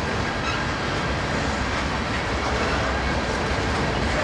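Freight train's tank cars and covered hoppers rolling past on steel wheels and rail: a steady, even rumble and rush, with a faint thin high-pitched ring running through it.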